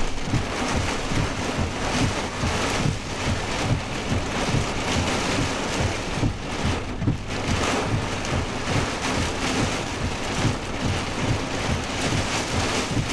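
Heavy wind-driven rain pelting a truck during a severe straight-line windstorm, heard from inside the cab. Uneven gusts buffet the truck and the microphone under a continuous wash of rain.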